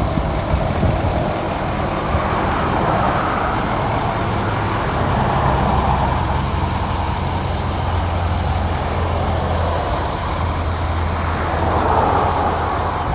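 A Ford 6.7L Power Stroke V8 turbo diesel idling steadily, with a low, even hum.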